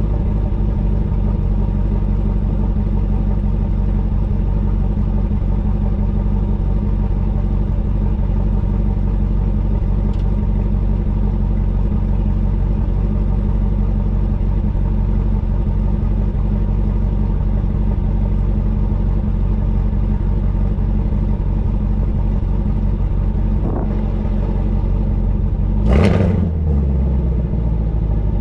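Chevrolet Camaro ZL1's supercharged 6.2-litre V8 idling with a steady exhaust rumble, echoing in a parking garage. About two seconds before the end, one quick throttle blip revs it up and lets it fall back to idle.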